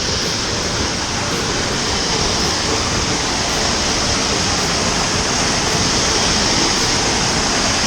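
Waterfall: a steady rush of falling water, slowly growing a little louder.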